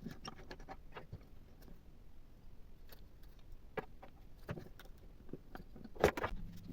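Scattered small clicks and knocks of hard parts being handled, with one louder knock about six seconds in.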